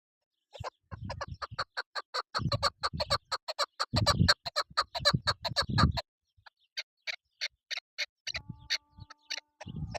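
Chukar partridge calling: a fast run of sharp chuk notes, about five a second, that stops around six seconds in and then starts again. Bursts of low rumble come and go underneath.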